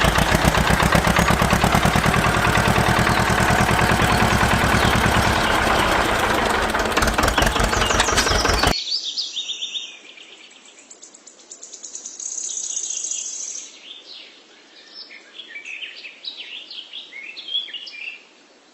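A small motor running loudly with a very fast, even rattle, cutting off suddenly about nine seconds in; after that, birds chirping.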